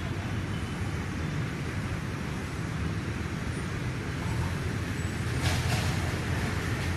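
A heavy diesel engine, such as a bulldozer's, running with a steady low rumble. A brief hiss comes about five and a half seconds in.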